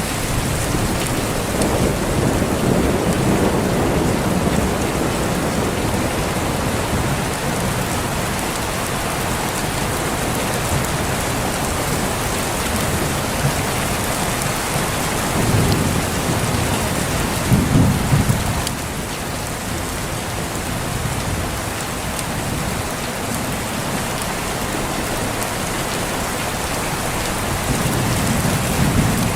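Steady heavy rain falling, with rolls of thunder rumbling low at the start, twice in the middle and again near the end.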